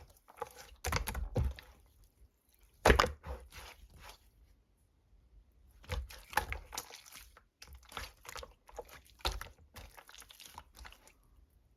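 Colourless clear slime being pressed, folded and squished by hand: irregular sticky squelches and crackling pops, with the loudest pop about three seconds in and a short pause around the middle.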